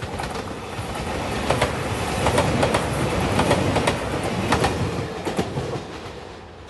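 A JR Shikoku Anpanman-liveried train passing close by, its wheels clattering in a clickety-clack over the rail joints. The rumble builds, is loudest in the middle with a run of sharp clacks, then fades near the end.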